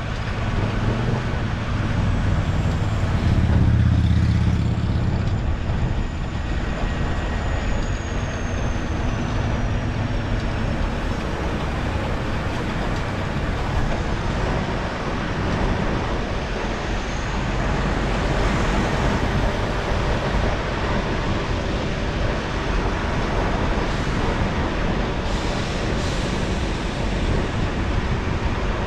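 Steady rumble and road noise of a vehicle under way, swelling briefly about four seconds in.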